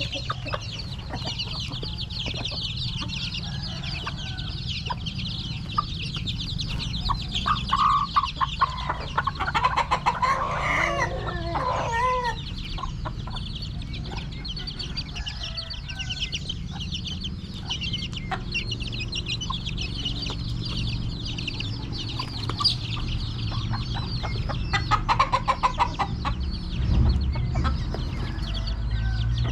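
A flock of chickens clucking and chirping without pause, with louder single calls about ten seconds in and again near the end, over a steady low hum.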